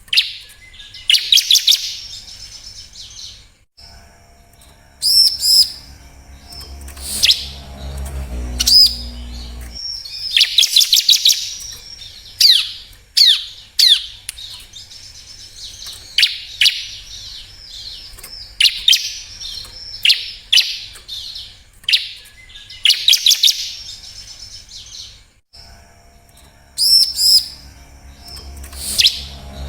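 Bar-winged prinia (ciblek) calling: repeated bursts of high, sharp chirps and quick falling notes, with short gaps between the bursts. A low rumble sits underneath twice, for several seconds each time.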